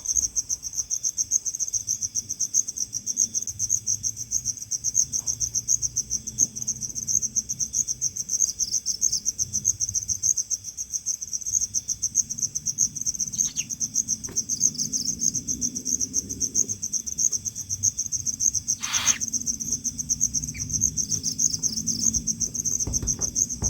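Crickets chirping in a steady, fast pulsing trill, with a brief hiss about nineteen seconds in.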